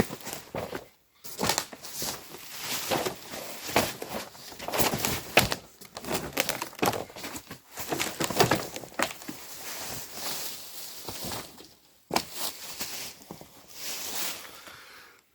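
Irregular rustling, crinkling and knocking as packaging and generator parts are handled during unboxing.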